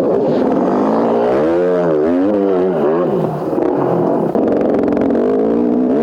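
Small engine of a mini dirt bike running, its revs dropping and picking up again twice about two seconds in, then holding a fairly steady speed.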